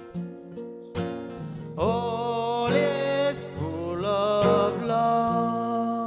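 Live acoustic guitar strummed in steady chords, with a voice singing a sliding, held line over it from about two seconds in until nearly five seconds.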